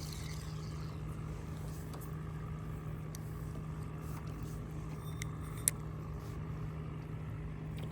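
A boat motor running steadily at one even pitch, with a few light clicks and one sharp click about five and a half seconds in.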